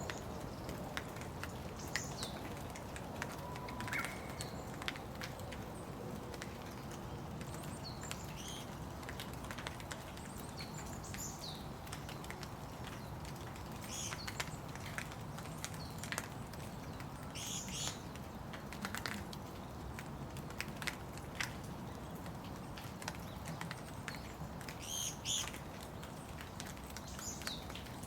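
Steady rain with scattered sharp drips, and a bird giving short high chirps several times.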